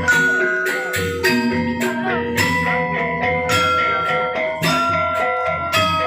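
Balinese gamelan playing: bronze metallophones and gongs struck in quick, steady succession, several ringing pitches sounding together.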